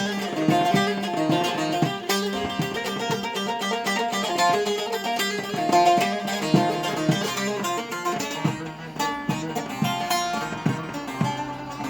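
Instrumental break on a plucked string instrument: a quick picked melody of many short notes, with no singing.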